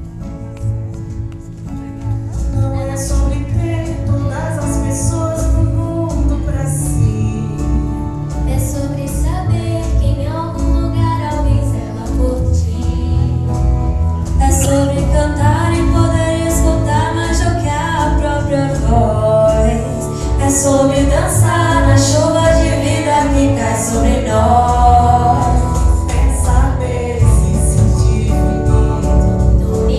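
Female voices singing a song together over instrumental accompaniment, getting louder about two seconds in and again past the midpoint.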